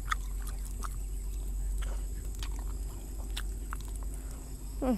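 A person chewing and biting food close to the microphone: many small, irregular wet clicks and smacks. Near the end comes a short voiced sound that falls in pitch.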